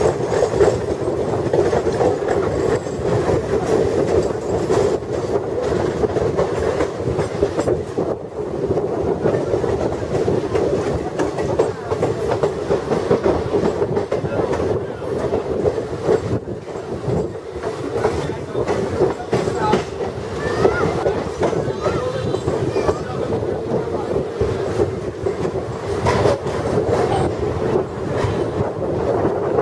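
Passenger train coaches running at speed, heard from an open coach doorway: a steady rumble of wheels on rail with a continuous clickety-clack of wheels over rail joints.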